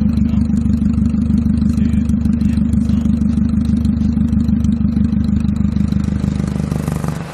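Car engine idling through an open electric exhaust cutout, a loud steady low rumble. Near the end the sound abruptly drops to a quieter, thinner note as the cutout closes.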